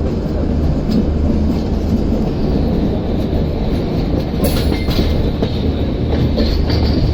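Passenger train running on the track: a steady rumble with scattered clacks of the wheels, and a brief hiss about four and a half seconds in.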